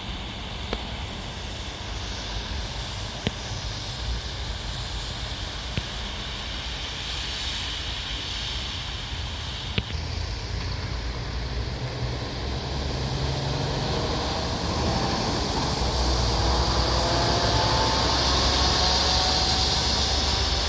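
Heavy truck engine and road noise, growing louder over the second half, with the engine's pitch rising near the end.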